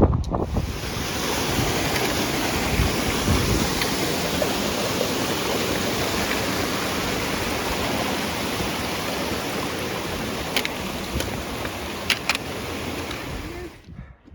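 Strong wind rushing and buffeting across the microphone as a steady, loud roar, with a few sharp clicks near the end.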